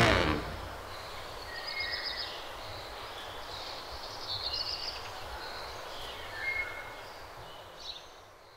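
Outdoor ambience: a steady background hiss with scattered short bird chirps, fading out near the end. It opens on the dying tail of a final music hit.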